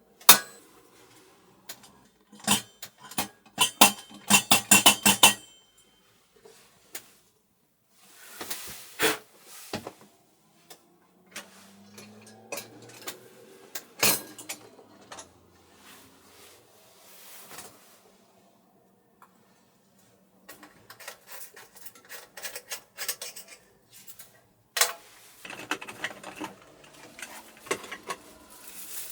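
Clinks, knocks and clatter of dishes and utensils being handled. It comes as scattered separate knocks, with a dense run of rattling clinks a few seconds in and another cluster near the end.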